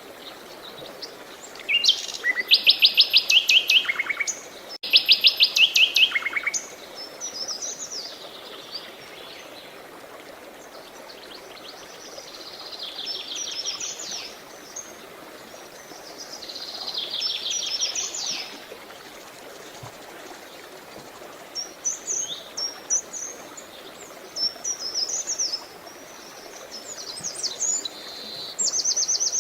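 Songbirds singing: two loud, fast trilled phrases in the first six seconds, then softer, shorter chirping phrases every few seconds, over a steady background hiss of running water.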